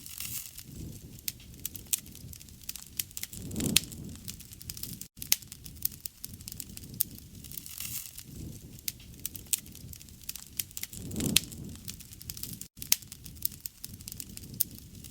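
Wood fire crackling: frequent sharp pops and snaps over a low rushing sound of the flames, which swells louder twice. The sound cuts out for an instant twice.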